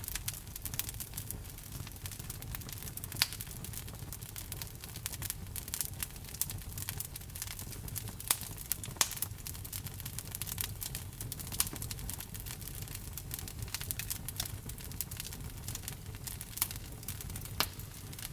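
Wood fire crackling in a fireplace: a steady low rumble of the flames under a dense run of small snaps, with a few louder pops.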